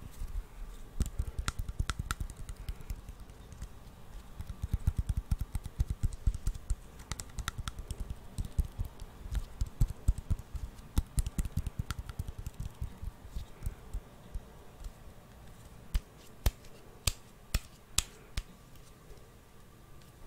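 ASMR tapping on a hard object: quick, irregular fingertip taps, dense for most of the stretch, then thinning to a few sharper, louder clicks near the end.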